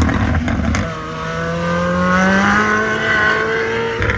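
Ford Escort WRC rally car's turbocharged four-cylinder engine under power. Its note dips briefly about a second in, then rises steadily as the revs climb, and levels off near the end.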